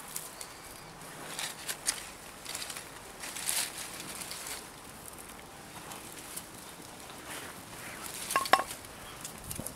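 Scattered rustling and crackling of dry leaves and twigs being handled around a small twig-burning camp stove, with two sharp metallic clinks about eight and a half seconds in.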